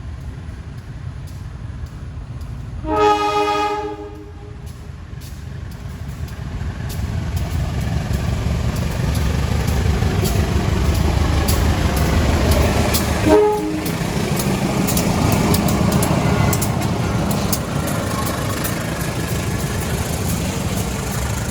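CC 202 diesel-electric locomotive sounding its horn in one blast of about a second, then its engine rumble building and staying loud as the train passes, with the wagons' wheels clicking over the rail joints. A second, shorter horn toot comes about halfway through.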